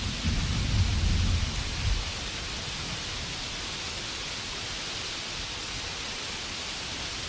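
Steady rainfall with a low rumble of thunder in the first two seconds.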